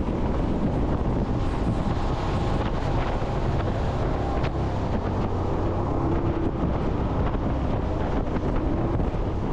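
Jet boat running at speed: a steady engine and water roar, with wind buffeting the microphone.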